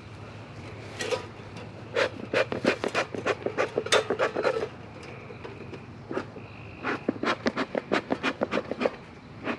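Bee smoker's bellows being pumped, giving quick puffs of air in two short runs of about five puffs a second, the first about two seconds in and the second near the end.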